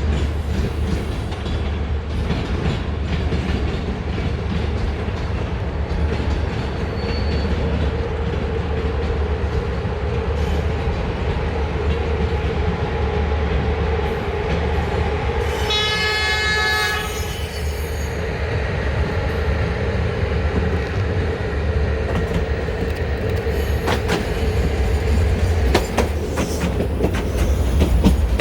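A train running through the station with a steady low rumble. About halfway through a horn sounds for roughly two seconds, and near the end the wheels click sharply over rail joints.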